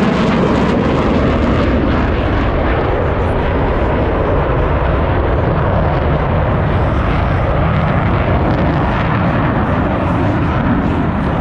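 Boeing F/A-18 Super Hornet jet engines, a loud, steady jet noise that eases slightly near the end.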